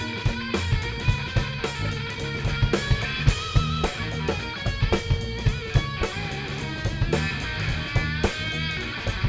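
Live rock band playing an instrumental passage: electric guitar with bending lead lines over bass and a drum kit keeping a steady beat.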